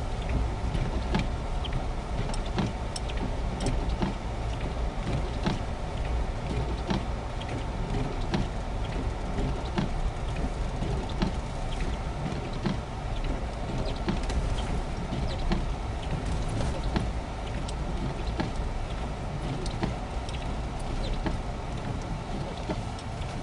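Vehicle driving, heard from inside the cab: a steady low engine and road rumble with frequent irregular clicks and knocks.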